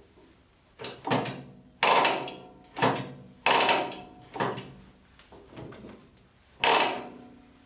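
A run of about eight sharp metallic knocks and clanks at uneven intervals, each ringing briefly, from tools and metal parts being handled while split pins are fitted to the handbrake linkage.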